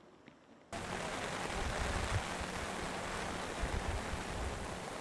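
Outdoor wind and sea noise: a steady rush with irregular low gusts buffeting the microphone, cutting in abruptly about a second in.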